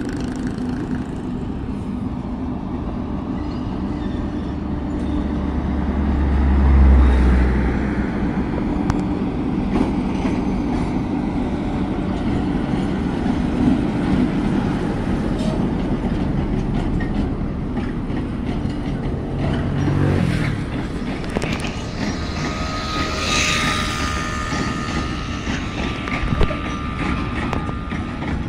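Freight train of loaded phosphate wagons hauled by a Hitachi E-1100-series electric locomotive, rolling past close by: a steady rumble of wheels on rail with clickety-clack over the rail joints. A deep rumble swells about seven seconds in, and a high wheel squeal sounds near the end.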